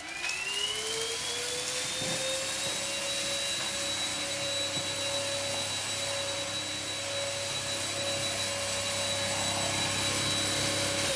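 Vacuum cleaner switched on: the motor spins up with a rising whine over the first couple of seconds, then runs steadily with a high whine and airy hiss.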